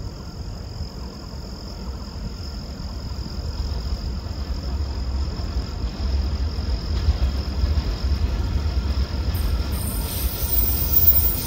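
Electric-hauled freight train of hopper wagons approaching around a curve: a low rumble that grows steadily louder, with a higher hiss joining near the end as it draws close.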